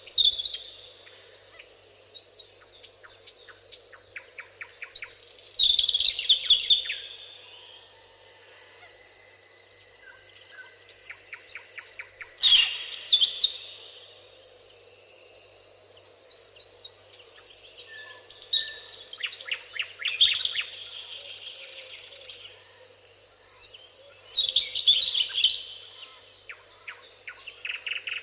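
Songbirds singing in a meadow: loud bursts of chirps and fast trills come every five to seven seconds, with quieter calls in between. A steady high tone runs underneath.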